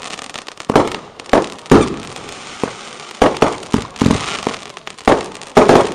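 Consumer fireworks going off: a rapid, irregular series of about a dozen sharp bangs over several seconds, with crackling between them.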